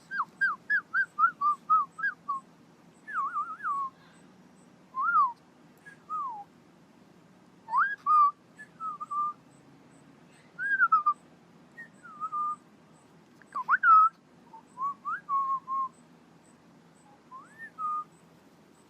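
Whistling: a quick run of short chirps, then scattered whistled notes and rising and falling glides in small groups, with pauses between them.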